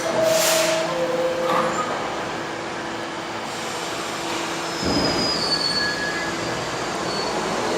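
R68A subway car's two-tone door chime sounding, then the doors closing with a thump about five seconds in, followed by short high-pitched squeals from the train.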